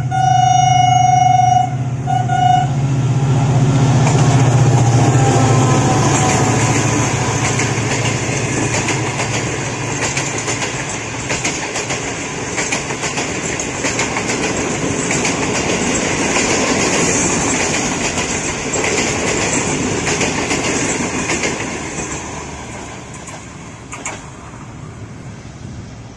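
A diesel-electric locomotive hauling a passenger express through a station at speed: its horn sounds for about two seconds, then gives a short toot. The engine rumbles past, followed by a long run of coaches clattering and clacking over the rail joints, fading near the end.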